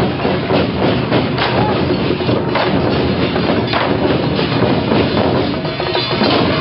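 Loud, dense clatter of traditional temple procession percussion, with many rapid, sharp strikes over a continuous din.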